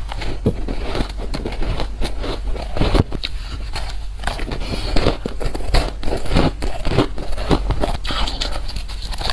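A person biting into and chewing soft white ice chunks: a dense, unbroken run of crackly crunches.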